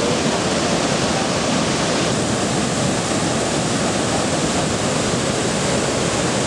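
Iguazu Falls: the steady, dense rush of a large waterfall's falling water.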